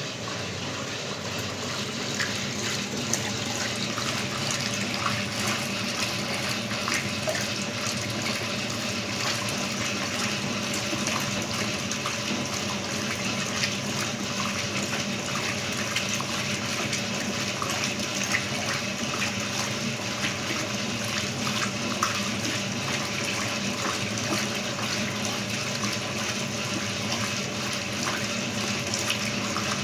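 Brastemp electronic washing machine with water running steadily into it, a continuous rush with faint small splashes.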